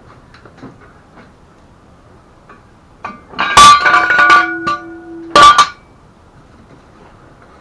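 Hard metal objects clanking together: a loud clatter with a ringing tone that hangs for nearly two seconds, then a second sharp clank, amid a few light knocks.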